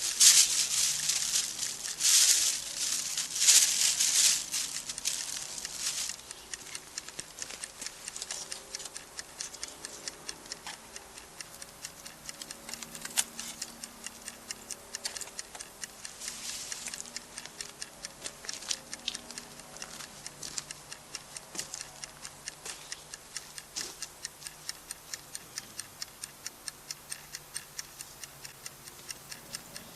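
Campfire crackling: loud crackles and hiss in the first six seconds, then a steady run of small sharp pops and ticks, several a second.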